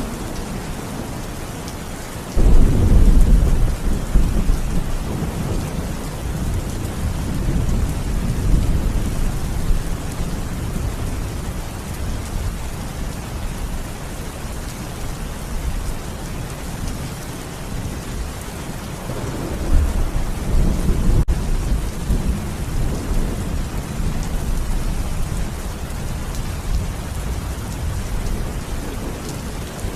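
Steady rain with thunder: a low rumble that starts suddenly about two and a half seconds in and dies away over a few seconds, and a second rumble about twenty seconds in.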